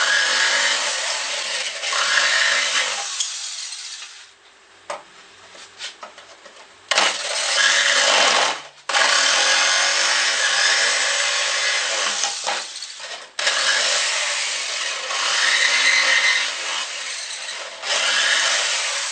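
A saw cutting wood in several long passes of a few seconds each, with short pauses between them.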